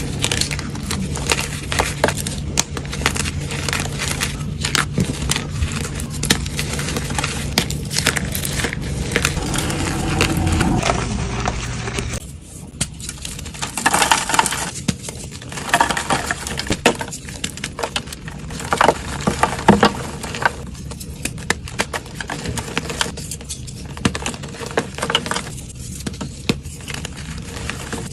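Blocks of gym chalk being crushed and crumbled, giving a dense run of crisp crunches and crackles. A low steady hum runs underneath for about the first twelve seconds, then stops.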